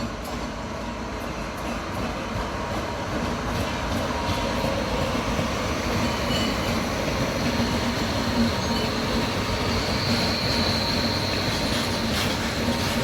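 Freight train hauled by an Indian Railways WAG-12 electric locomotive running on the rails, a steady rumble and rattle that grows gradually louder. A thin high wheel squeal comes in briefly about ten seconds in.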